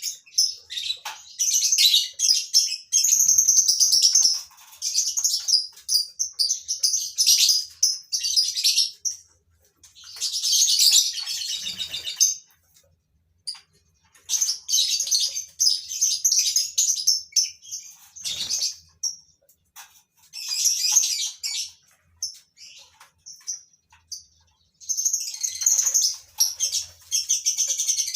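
Lovebirds in a breeding colony, chirping and chattering in shrill bursts, with a few short lulls.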